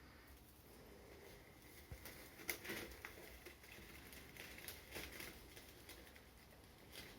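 Faint handling sounds: scattered light clicks and rustles as artificial pine branches are bent and fitted onto cardboard tubes.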